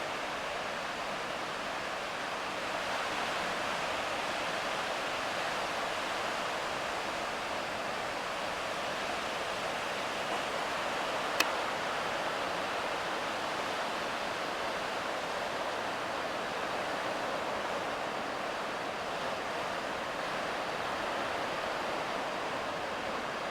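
Steady rushing noise of heavy surf breaking on the beach under a large typhoon swell, with one sharp click about eleven seconds in.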